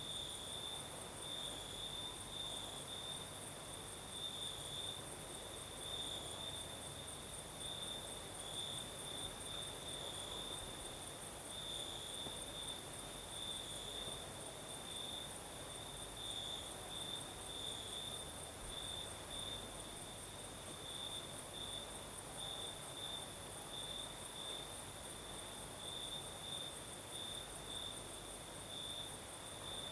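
Crickets singing at night: one steady chirping song in even pulses, with a thinner, higher continuous trill above it.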